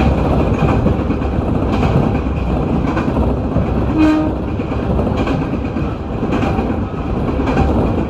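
Electric train running along the line, its wheels knocking over rail joints about once a second over a steady rumble. A short horn toot sounds about four seconds in.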